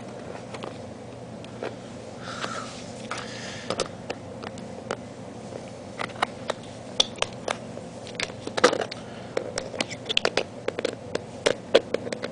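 Small screwdriver clicking and scraping against a plastic cassette tape shell as its screws are worked out, with irregular sharp clicks and taps and a brief scrape a couple of seconds in.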